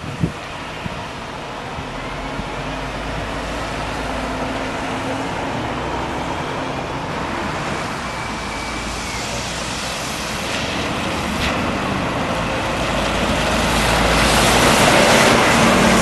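A diesel vehicle engine running with a steady low rumble, growing louder over the last few seconds as it draws close and passes.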